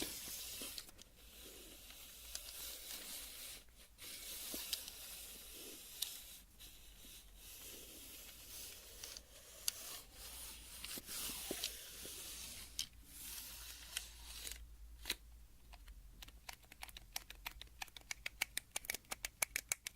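Tape measure worked by hand, making a faint scraping rasp, then a fast run of sharp clicks in the last third that come quicker towards the end.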